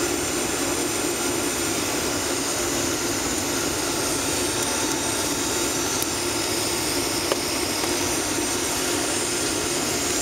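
Steady jet engine and airflow drone heard inside the cabin of a Boeing 757-300 airliner in flight.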